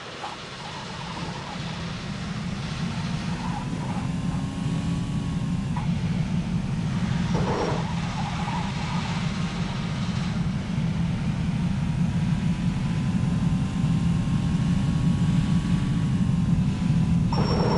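A vehicle running with a steady low rumble that grows louder over the first few seconds and then holds.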